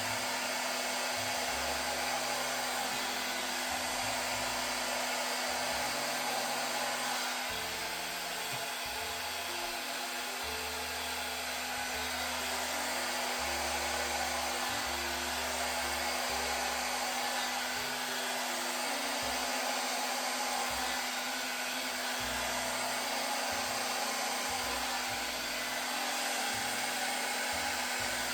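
Handheld hot-air blower running steadily with an even rushing hiss and a low motor hum, with soft background music underneath.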